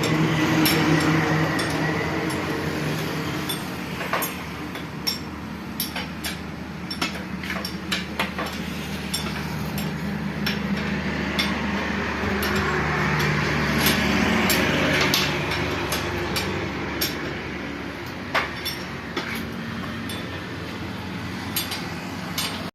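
Repeated sharp metallic clinks and taps of tools and steel parts during tractor gearbox work, over a steady engine hum that swells for a few seconds in the middle.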